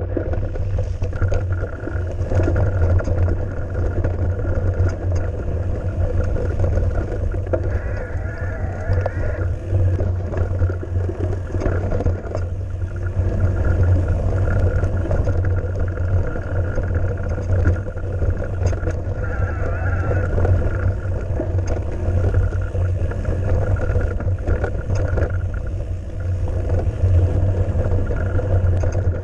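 Mountain bike riding over a rough trail: a continuous low rumble of wind buffeting the bike-mounted microphone, with scattered clicks and rattles from the bike.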